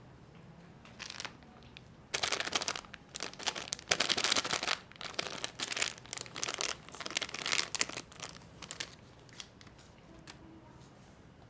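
Plastic snack wrapper crinkling and tearing in a run of loud, irregular rustling bursts that starts about two seconds in and dies away after about seven seconds into a few faint clicks.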